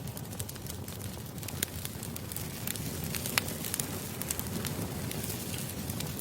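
Campfire crackling: a steady low rush of burning wood with frequent sharp snaps and pops, one louder pop a little past the middle.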